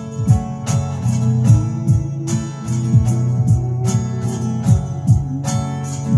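Strummed acoustic guitar playing an instrumental passage over a steady beat, with no singing.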